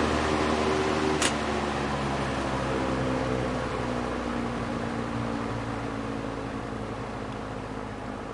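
General Electric W22 plastic-bladed box fan running with a steady whir and low hum. A single sharp click comes about a second in, after which the running sound slowly fades as the fan winds down.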